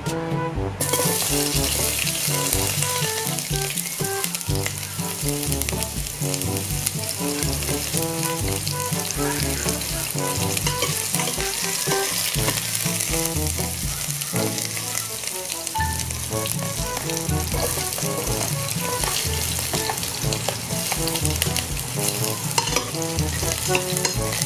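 Sliced onion and garlic sizzling in hot fat in a stainless steel pot. The sizzle starts suddenly about a second in as they hit the pan, then runs steadily while they are stirred. Background music plays underneath.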